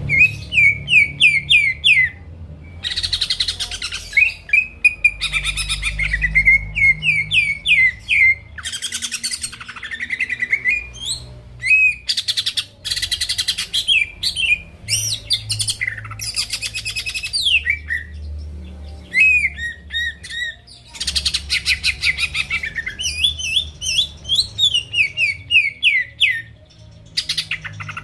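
Cucak ijo (green leafbird) singing on and on: quick runs of sharp downslurred whistles broken by dense, very high chattering phrases.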